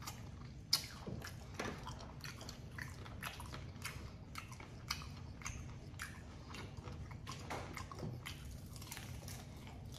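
Chewing and biting into crispy fried chicken: a run of short, sharp mouth clicks and smacks, the sharpest about three-quarters of a second in.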